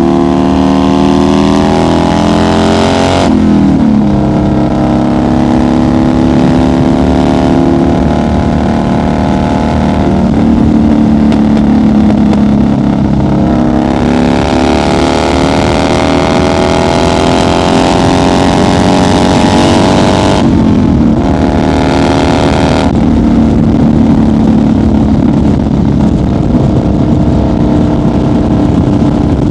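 A 1990 Harley-Davidson FXR's 1340 cc Evolution V-twin under load, its pitch climbing as it pulls through the gears. The pitch drops at gear changes about three, ten and twenty seconds in, then climbs again.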